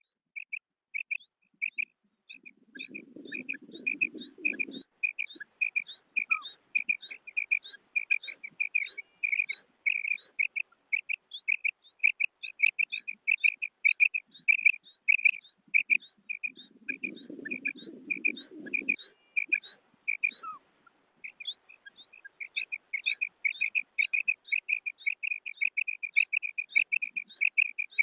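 Female common quail calling: a steady run of short, high-pitched notes, about three a second, without pause. Twice, a low rumbling noise lasting a couple of seconds lies under the calls.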